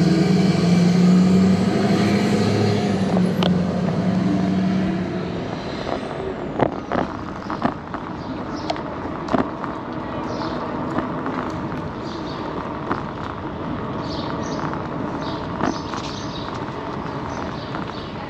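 A motor vehicle's engine running close by, loudest for the first five seconds and then fading away. After that, scattered sharp clicks and knocks over quieter street noise.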